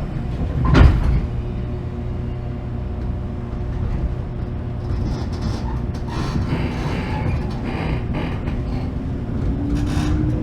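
Inside a 415 series 1500-subseries electric train pulling away: a loud knock about a second in, then a steady low rumble. Near the end a traction motor whine starts and rises slowly in pitch as the train gathers speed.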